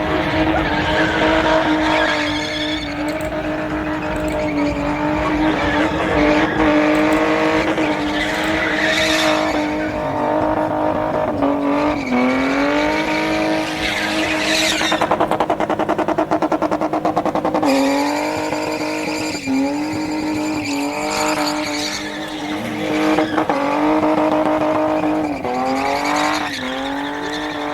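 Sports car engine held at high revs while its tyres squeal as the car slides. The engine pitch dips briefly several times and climbs in one long rise about halfway through.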